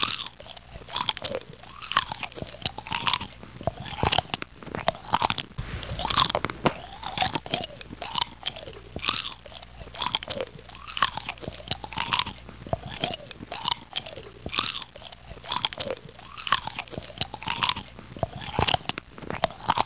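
Someone chewing hard, brittle peanut brittle close to the microphone: repeated crunches, about one or two a second.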